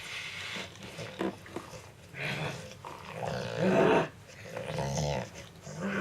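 Pet dog growling in several separate bursts, the loudest a little before four seconds in.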